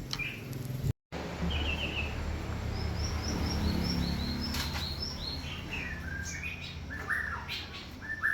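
A bird singing a run of short chirps that step down in pitch, over a low steady hum, with a brief dropout in the sound about a second in.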